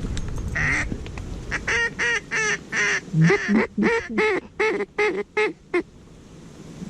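A rapid series of about a dozen mallard hen-style quacks, about four a second, that stops a second before the end.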